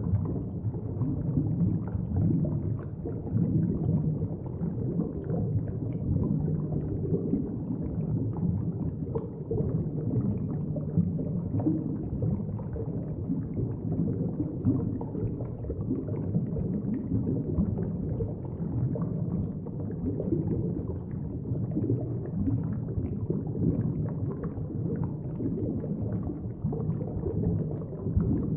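Underwater ambience: a continuous, muffled low wash of moving water, gently rising and falling in level, with little high-pitched content.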